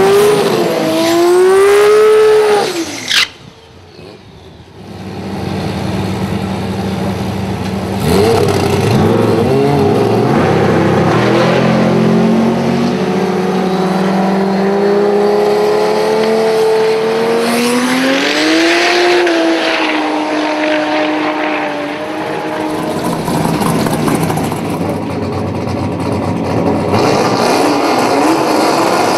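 Drag race car engine revving up and down at the end of a burnout, stopping abruptly about three seconds in. Then a drag car's engine running loudly at the start line, with one rev up and back down about eighteen seconds in.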